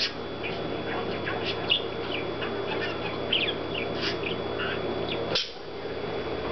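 Pet parakeet chattering: a rapid, rambling stream of small chirps, warbles and mumbled mimicked words, over a steady background hum. A sharp click about five and a half seconds in.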